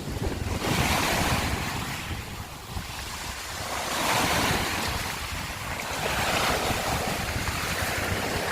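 Sea waves washing in over a shore of broken scallop shells, swelling and falling back about three times. Wind rumbles on the microphone underneath.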